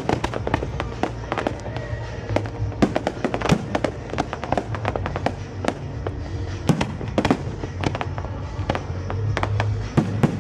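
Fireworks going off in quick, irregular succession: many sharp bangs and crackles, several a second, over music playing underneath.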